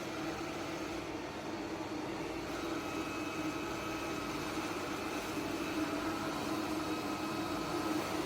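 eufy Omni C20 robot vacuum running, a steady motor and suction hum; a faint high steady tone joins about two and a half seconds in.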